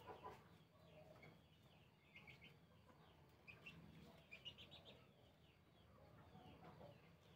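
Near silence: quiet room tone with faint bird chirps in the background, coming in a few short quick clusters.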